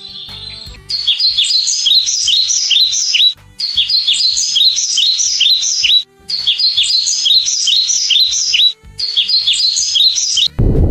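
A small bird chirping rapidly, in four phrases of fast high notes separated by brief gaps.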